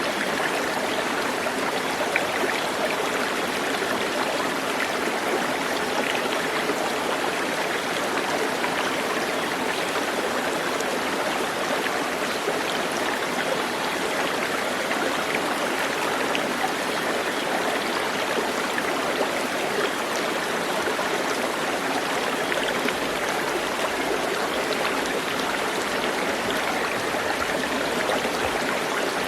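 Stream water running steadily over stones, an even rushing babble.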